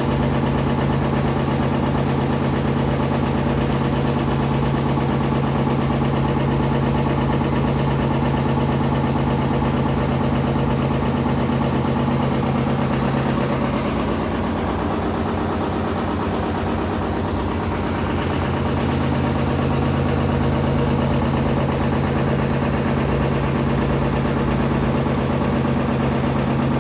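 Washing machine running with a steady low mechanical hum, the machine failing to drain its water; the hum wavers briefly about halfway through.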